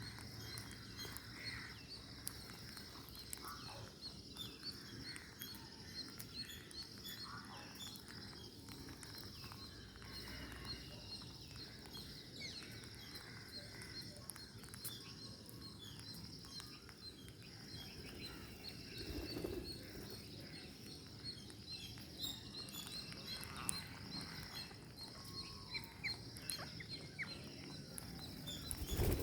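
Faint outdoor ambience with soft, scattered bird chirps and small clicks, over a steady high hiss.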